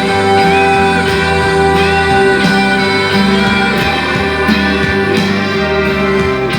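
Instrumental backing music for a Taiwanese Hokkien ballad: plucked guitar notes over long held chords.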